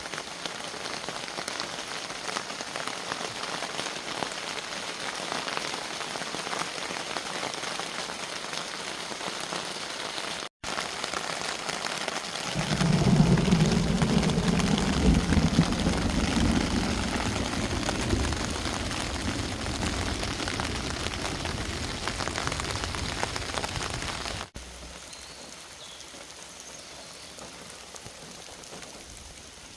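Steady heavy rain pattering down. About halfway through, a deep rumble of thunder starts suddenly and slowly rolls away over some ten seconds. Near the end only softer rain is left.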